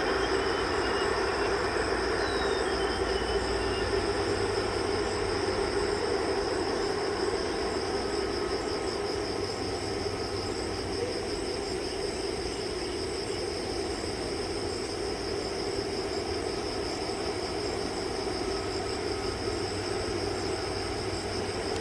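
Airbus A330-300 jet engines running steadily at taxi power, a constant rumble with a high whine.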